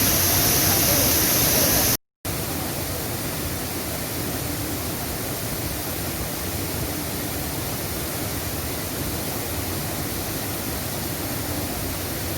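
Waterfall rushing steadily. About two seconds in, the sound cuts out for a moment and comes back a little quieter.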